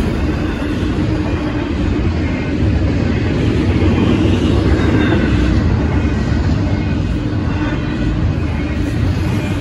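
Union Pacific intermodal stack train rolling past: a steady rumble of double-stack well cars' wheels on the rails.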